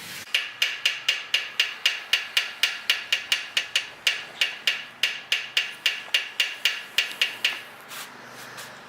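Small hammer tapping copper O-ring wire into the groove around a cylinder to make a boost-proof head seal: a quick, even run of ringing metallic taps, about four or five a second, with a brief pause midway, stopping about a second before the end.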